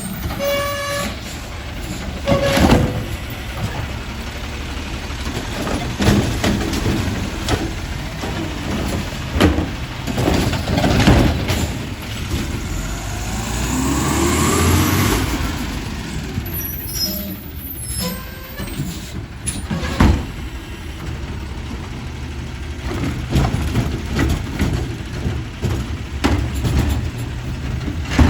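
A city garbage truck working: its diesel engine runs under repeated clanks and knocks, with a rising then falling whine about halfway through.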